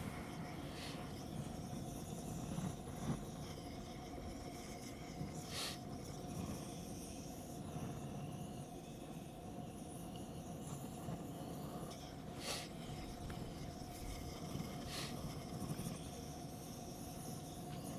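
Wood bonfire burning, with a handful of sharp crackling pops several seconds apart over a low steady rumble.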